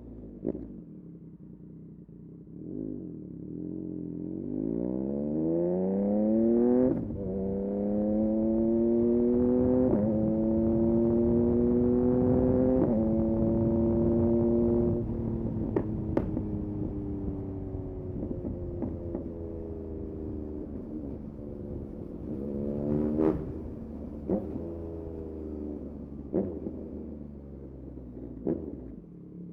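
Yamaha MT-09 SP's 890 cc three-cylinder engine through a Dominator aftermarket exhaust, accelerating hard. Its pitch climbs and drops sharply at each of three quick upshifts. It then goes off the throttle and winds down, with several sharp pops and short blips in the later part.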